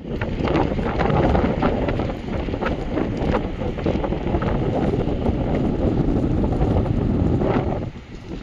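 Snowstorm wind gusting hard against the microphone, a dense low rumble with scattered small ticks. It drops briefly in a short lull near the end.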